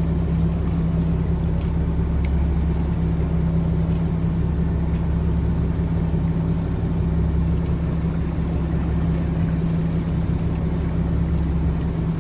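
Fishing boat's engine idling, a steady low hum.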